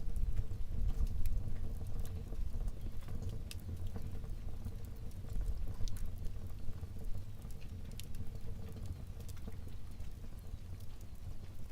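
Wood fire burning in a fireplace: a low steady rumble of flames with scattered small crackles and pops.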